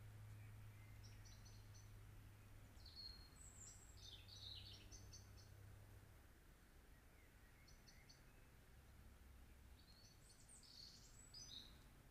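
Faint birdsong in a near-silent field: short bursts of four or five quick high chirps repeating every few seconds, with two fuller, more varied call phrases, one a few seconds in and one near the end. A low steady hum sits underneath.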